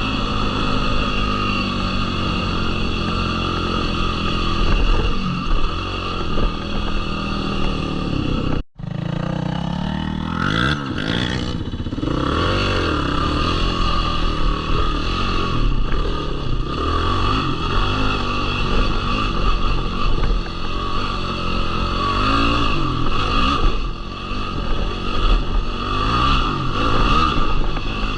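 Yamaha YFZ450R quad's single-cylinder four-stroke engine running on the trail, revving up and down through the throttle with some rattle from the machine. The sound cuts out for a moment about a third of the way in.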